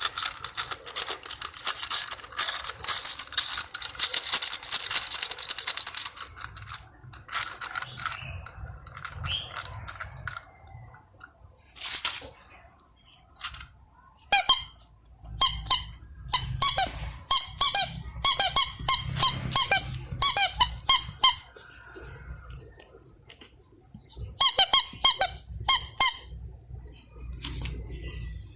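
Plastic toys being handled and set down. First comes a dense run of quick clicking and rattling, then a sharp scrape, then bursts of rapid squeaking.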